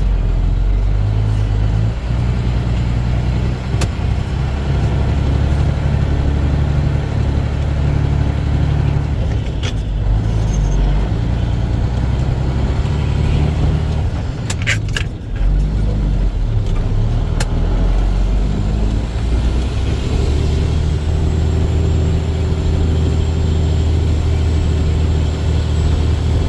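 Dump truck's diesel engine running under way, heard from inside the cab, its note dropping and rising several times as it changes speed. A few sharp clicks come about halfway through.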